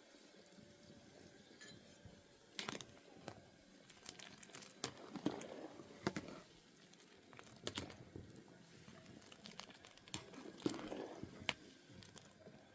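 Handling noises: crinkling and rustling with scattered sharp clicks and knocks, in two longer rustling spells about five and ten seconds in.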